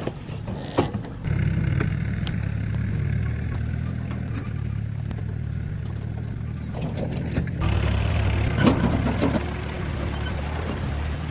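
Truck engine catching about a second in and then running steadily, with some clatter and knocks about eight to nine seconds in.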